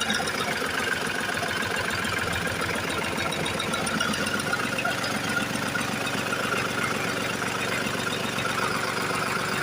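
Lister-type diesel engine running steadily, with an even, rapid firing beat.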